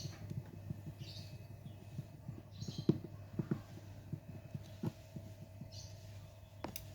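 Small irregular knocks and clicks of a phone being handled and taken apart, with a few short high scraping or chirping sounds, over a steady low hum.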